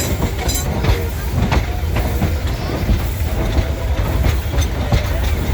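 Vintage train running along the track: a heavy steady rumble with irregular clacks and clicks from the wheels and carriage.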